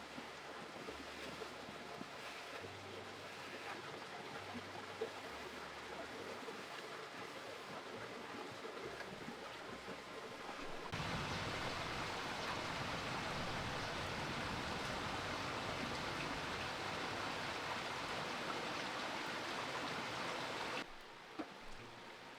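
A steady rushing noise, which gets louder and brighter suddenly about halfway through and drops back just as suddenly near the end.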